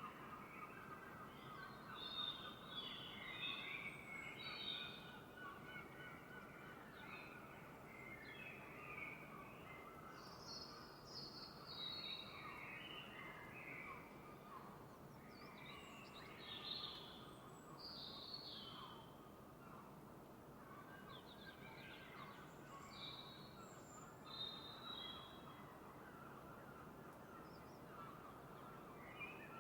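Faint dawn birdsong: many birds chirping and calling in short overlapping phrases, over a steady low background hiss.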